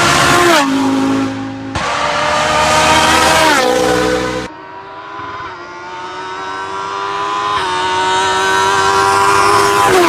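Race car engines at full throttle on a hillclimb, the revs climbing and then dropping at each upshift. The sound breaks off abruptly twice, about two and four and a half seconds in, and starts again on a different engine note.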